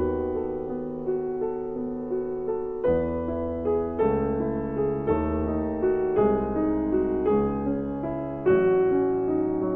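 Background piano music: a slow, gentle piece with about one new note or chord each second, each struck and left to ring.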